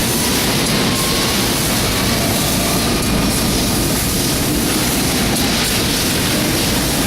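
Mazak HyperGear 510 CNC laser cutter running, a steady hiss and rumble of machine noise with no breaks.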